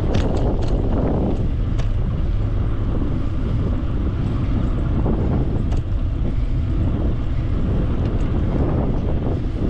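Wind buffeting the microphone of a camera on a moving e-bike, a loud steady low rumble, with a few sharp ticks in the first two seconds and one more about six seconds in.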